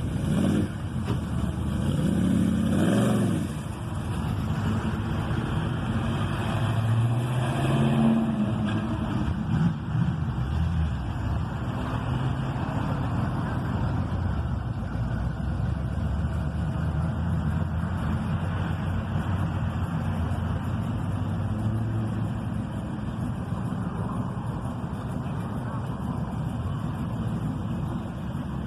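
Car engines running, their pitch rising and falling as the cars rev and move.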